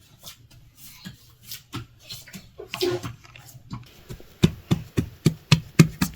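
Hands working bread dough: a few soft, scattered pats and knocks, then a quick even run of sharp slaps, about four a second, over the last two seconds.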